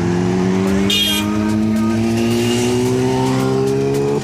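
Kawasaki ZX-10R inline-four engine pulling under acceleration, its note rising slowly and steadily, with a brief high chirp about a second in.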